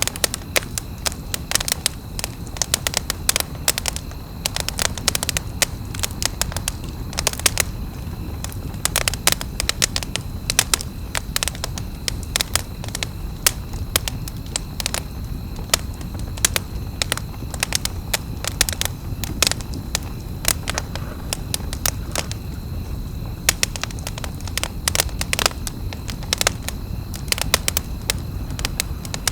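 Wood campfire crackling, with many sharp pops and snaps scattered irregularly over a low steady rumble.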